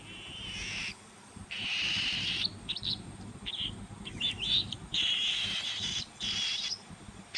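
Baby cockatiel chicks giving their raspy, buzzing begging calls at feeding time. The calls come in a series of about-a-second-long calls with short chirps between them.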